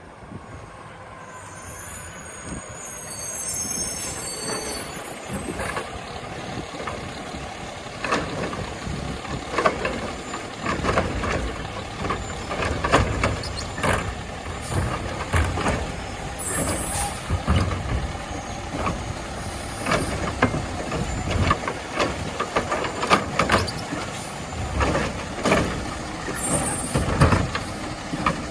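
Peterbilt 520 garbage truck with a Labrie Automizer automated arm working a line of carts. The diesel engine rises as the truck pulls up, with a high squeal of the brakes, then carts are lifted and tipped with repeated bangs and clatter, over the running engine and short air-brake hisses.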